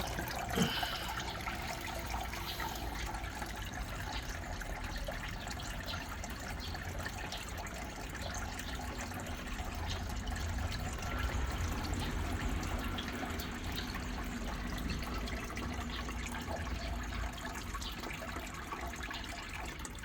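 Small waterfall: water falling and splashing steadily, with many small drips and trickles. There is a brief louder sound about half a second in.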